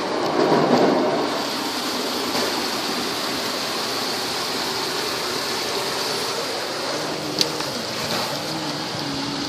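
Water jets of a PDQ ProTouch automatic car wash spraying onto a car, a steady hiss and patter like heavy rain. The spray swells briefly about half a second in, and there is a single sharp click near the end.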